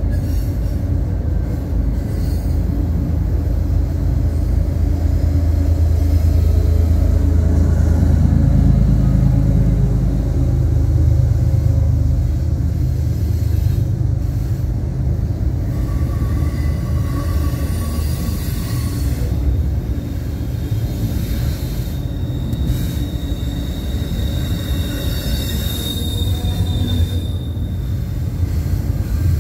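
Double-stack intermodal freight train's container well cars rolling past at speed: a steady, loud rumble of steel wheels on rail, heaviest about a third of the way in. In the second half a thin, high wheel squeal rides over the rumble for several seconds.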